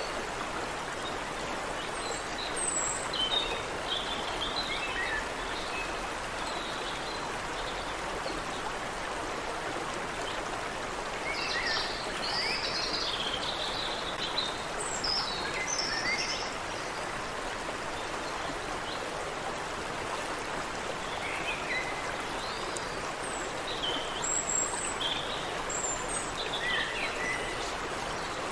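A stream running steadily over small cascades, with small birds chirping and trilling on and off above it, in three loose bouts.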